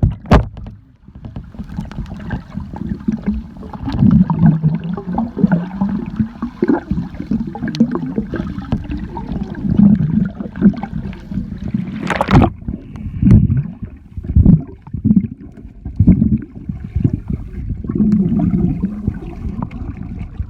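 Muffled, sloshing and gurgling water close to the microphone, heavy and low with the highs dulled, with a sharp splash about twelve seconds in.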